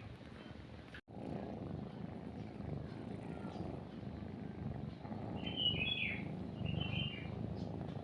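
Kitten purring steadily, a content purr while nursing, with a brief cutout about a second in. A small bird chirps two short phrases over it past the middle.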